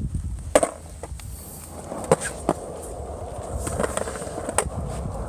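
Skateboard rolling over pavement: a steady low wheel rumble, broken by several sharp clacks of the board.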